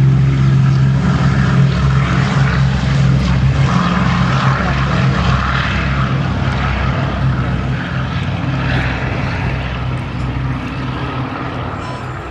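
Boeing B-17 Flying Fortress's four Wright Cyclone nine-cylinder radial engines running at take-off power, a loud propeller drone that slowly fades as the bomber climbs away.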